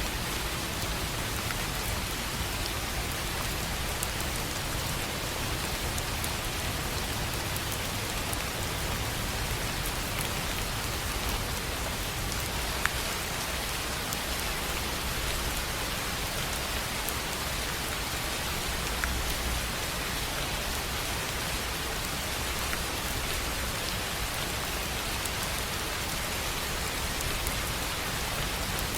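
Steady rain on a tin roof: an even hiss of drops, with a couple of sharper drop hits about halfway through.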